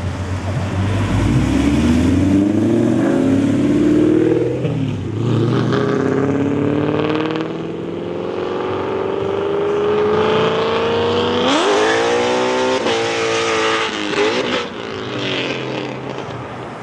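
Ford Mustang Boss 302's V8 accelerating hard away from a standstill, its exhaust note rising in pitch, dropping at a gear change about four and a half seconds in, then climbing again in a long pull. About two thirds of the way through, a sharp rev rises and falls quickly, followed by a shorter one.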